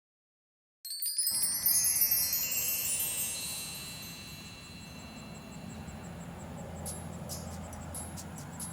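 A wind-chime glissando starting suddenly out of dead silence about a second in: many high bell tones cascading together, then fading over about three seconds. A faint low rumble with a few small high clicks continues after it.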